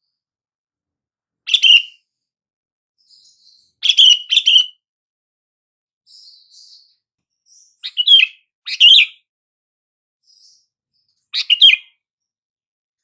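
Sooty-headed bulbul calling: six short, loud, chirpy phrases that drop in pitch at the end, one, then a quick pair, then two more and a last one, with fainter higher notes between them.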